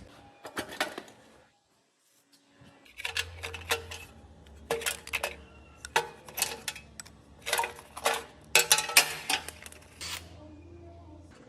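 Metal parts and tools clinking and clattering in a run of quick bursts, over a faint low steady hum, with a brief silent gap about two seconds in.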